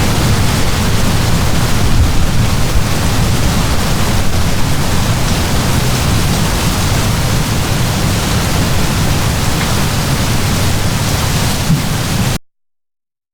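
Heavy downpour of rain: a dense, steady hiss with a strong low rumble underneath. It cuts off suddenly near the end.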